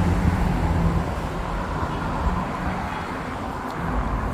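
Street traffic noise: the low rumble of a motor vehicle going by, easing off after about a second.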